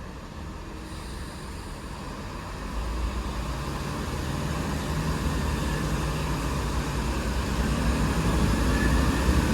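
Class 165 diesel multiple unit pulling away under power, the thrash of its underfloor Perkins diesel engines rising as the rumble grows steadily louder.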